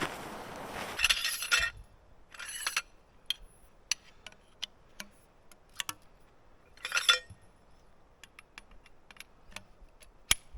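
Camping gear being handled: a rustling noise that stops about two seconds in, then scattered sharp light clicks and clinks with a couple of short rustles, the loudest about seven seconds in.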